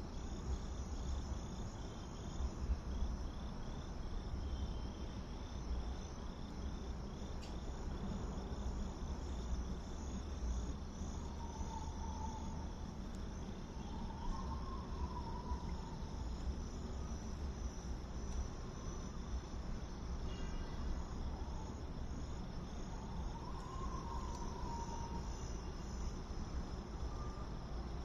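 Night insects, crickets among them, chirping steadily in fast, even pulses, over a low rumble. A few faint wavering calls come through about midway and again near the end.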